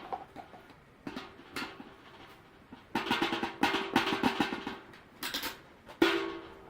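Plastic dust cup of a Sharp cordless stick vacuum being handled and emptied: scattered plastic clicks, a spell of rapid rattling and tapping about three seconds in, and a sharp plastic clack near the end.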